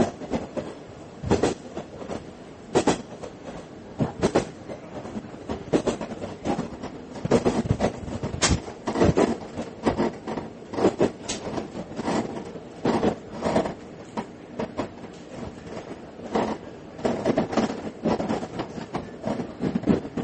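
Train running noise heard from inside a diesel railcar, with irregular sharp clacks and knocks of the wheels passing over rail joints and points.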